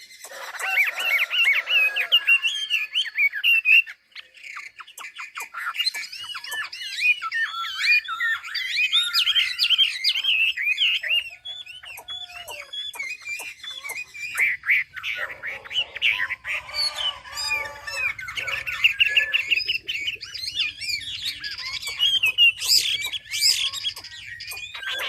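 A caged 'Mi' songbird singing a long, varied song of fast whistled and chirping phrases, with a brief pause about four seconds in. A faint low hum runs under the second half.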